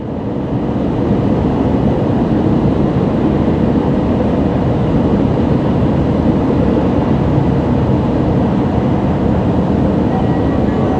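Tohoku Shinkansen train at the platform: a loud, steady rushing rumble that fades in at the start, with a few thin high tones joining near the end.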